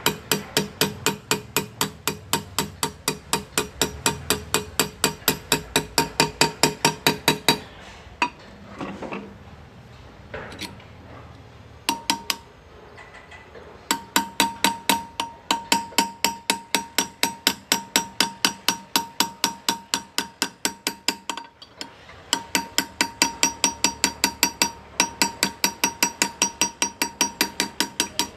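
Hand engraving with hammer and chisel: a small hammer taps a steel graver through metal in fast, even strokes, about five a second, each with a ringing tone. The tapping stops for several seconds about a quarter of the way in, with only a few single knocks, and pauses briefly again about three quarters through.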